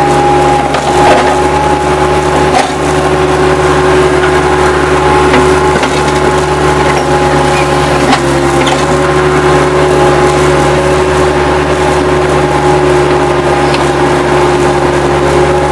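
Bobcat 763 skid steer's diesel engine running steadily with a constant whine, while wood debris cracks and splinters a few times as the machine works it.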